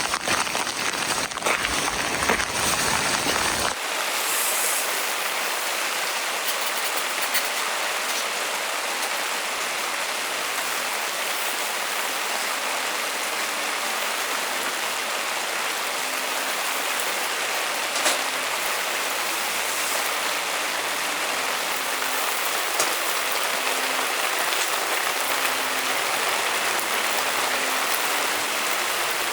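Steady heavy rain with a few sharper drop ticks. For the first few seconds a deeper rumble runs under it, then stops suddenly.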